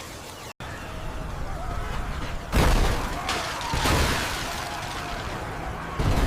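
Explosion sound effects: three deep booms, about two and a half seconds in, just under four seconds in and near the end, over steady low noise.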